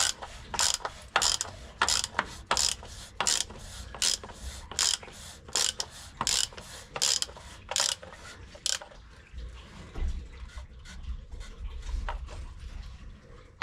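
Ratchet wrench with a large socket clicking in steady strokes, about two a second, as the cartridge oil filter's housing cap is screwed back down; the clicking stops about nine seconds in.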